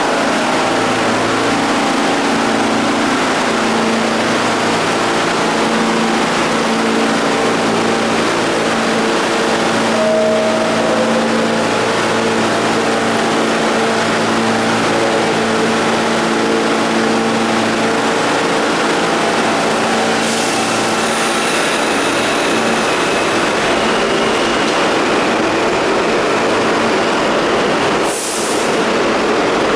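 R46 subway train standing at the platform, its onboard equipment humming steadily at a constant pitch, with a short hiss of air near the end.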